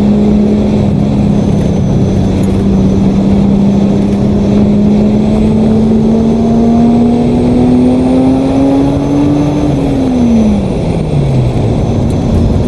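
Datsun 280Z's straight-six engine pulling steadily, its pitch slowly rising, then dropping off quickly about ten seconds in, over a steady hiss of wet road noise.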